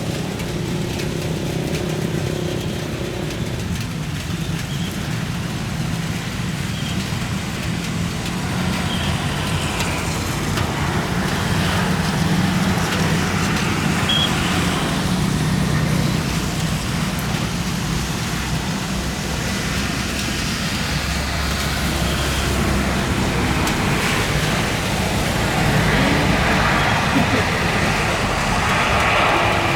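Steady low rumble of vehicle traffic, growing a little louder over the last few seconds.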